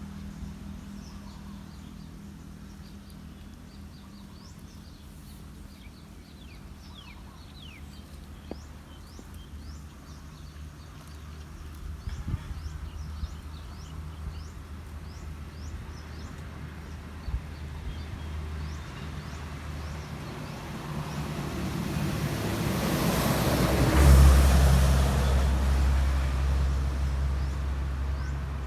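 A motor vehicle passes close by: its noise builds over several seconds to a peak near the end, then fades. Under it runs a steady low engine hum, and short high chirps repeat above.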